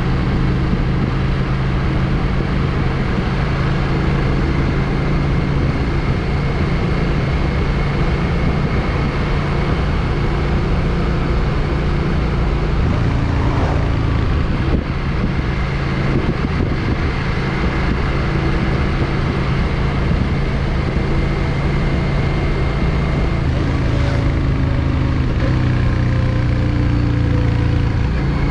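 Yamaha XVS650 Drag Star's air-cooled V-twin running at a steady cruising speed while riding, under a steady rush of wind and road noise.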